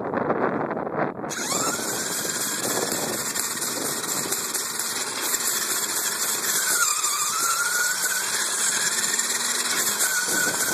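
RC car driving with the phone riding on it: the motor's whine rises and falls with speed over a steady hiss of drivetrain and wheel noise, starting about a second in.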